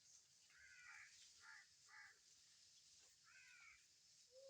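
Short harsh animal calls, caw-like, four of them: three about half a second apart, then one more about a second later, over a steady high hiss.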